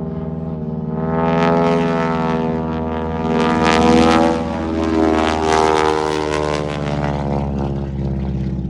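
Propeller airplane engine droning as it flies a low pass, swelling to its loudest about four seconds in and then fading.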